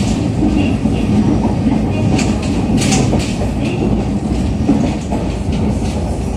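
Running noise inside a JR East EV-E301 series (ACCUM) battery-electric train at speed: a steady, loud rumble of the wheels on the rails, with a few sharper clicks about two and three seconds in.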